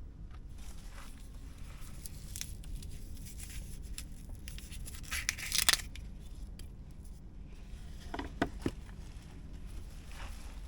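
Hands handling food packaging, with tearing and crinkling and one louder rip about halfway through, then a few light knocks, over a steady low hum.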